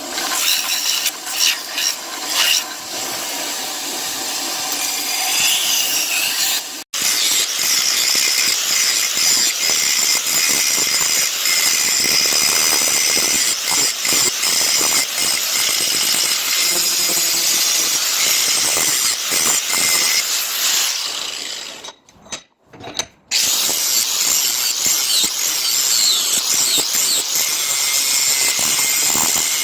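An abrasive power tool working on a knife blank, a steady rasping hiss with squealing edges. It cuts out for an instant about seven seconds in and stops for about a second around two-thirds of the way through before resuming.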